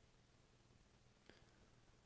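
Near silence: room tone during a pause, with one faint click a little past halfway.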